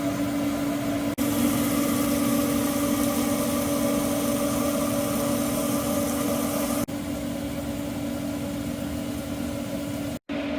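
Steady machine hum with one strong low tone and fainter tones above it, from the running equipment of a food trailer. It breaks off abruptly about a second in, again near the middle, and near the end.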